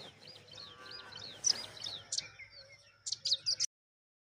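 Small birds chirping: a run of rapid high chirps and short falling notes, with several louder, sharper calls near the end, then the sound cuts off abruptly about three and a half seconds in.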